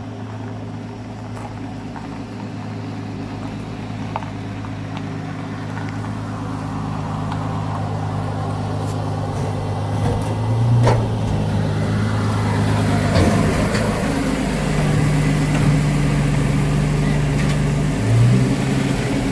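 A 1983 Chevy S10 mini truck's engine running steadily while it drives, with brief rises in pitch about halfway through and again near the end.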